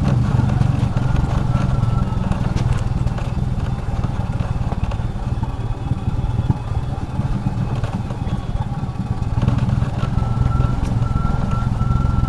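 Royal Enfield Classic 350's single-cylinder engine running as the motorcycle is ridden. The engine note eases off about a third of the way in and picks up again near the end.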